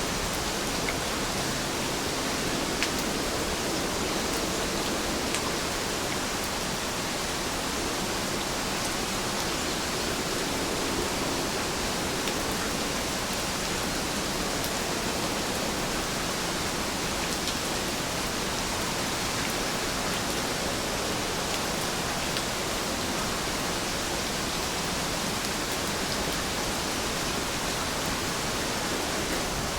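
Steady rain falling: a dense, even hiss with a few faint, scattered drop ticks.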